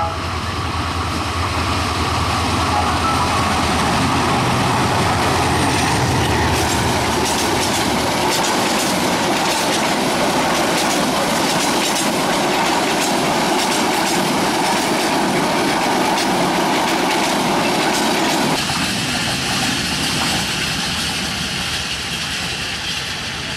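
Meter-gauge diesel express train passing: first the locomotive's deep diesel engine rumble, then the steady rush and clickety-clack of the coaches' wheels on the rails, easing a little in the last few seconds.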